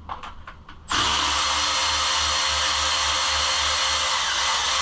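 A few light clicks, then a handheld power drill/driver runs at steady high speed for about four seconds, backing out an 8mm front fender bolt on a Kawasaki KLX110 pit bike.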